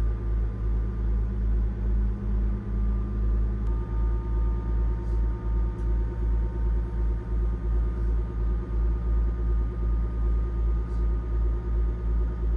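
Diesel railcar running, heard from inside the passenger cabin: a loud, steady low rumble that swells and fades about twice a second, with faint steady whining tones above it. One tone drops out and another comes in about four seconds in.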